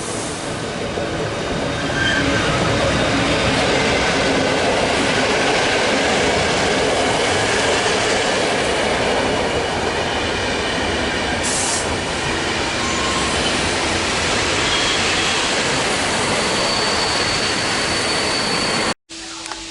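Train rolling past on the station tracks: a loud, steady rumble of wheels on rail that builds about two seconds in. It stops abruptly near the end.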